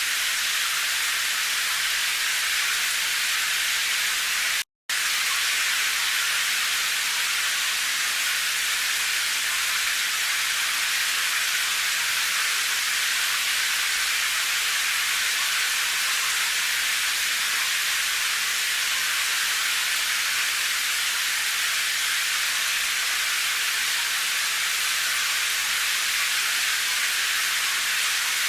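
Steady rain hiss, an even wash of noise with no distinct drops or thunder. It cuts out completely for a split second about five seconds in, then resumes unchanged.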